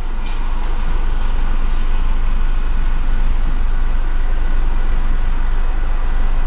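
Freight train of tank cars rolling through a grade crossing, heard from inside a car: steady wheel and rail noise.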